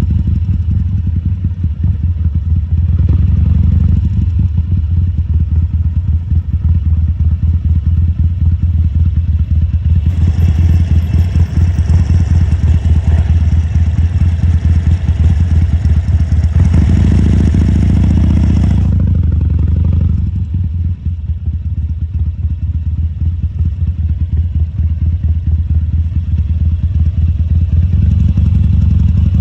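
2014 Harley-Davidson Sportster XL1200C's air-cooled V-twin running with a deep pulsing exhaust note. It gets more throttle from about ten seconds in, then eases off a little before twenty seconds and picks up again near the end.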